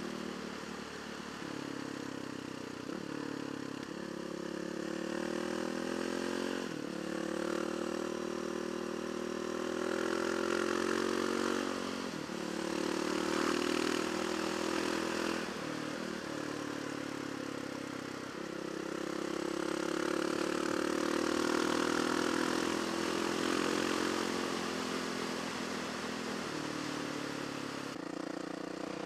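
Yamaha WR450F single-cylinder four-stroke motorcycle engine running under way, its pitch climbing steadily and falling back abruptly several times, with wind rush over the helmet-mounted microphone.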